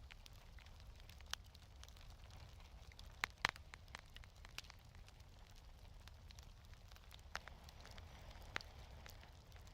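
Fireplace fire crackling: sharp wood pops at irregular intervals, a close pair about three seconds in the loudest, over a low steady rumble of the burning fire.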